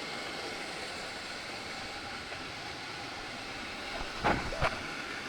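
Steady rushing of a waterfall, with two short sharp knocks about four seconds in.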